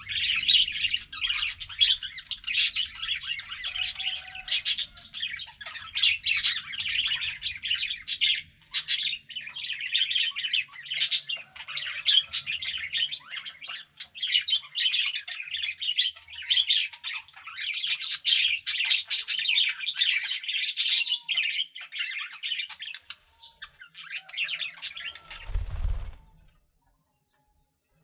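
Budgerigars chattering and warbling non-stop, a dense mix of high chirps, trills and sharp squawky notes. Near the end there is a brief low thump, and then the birdsong cuts off to near silence.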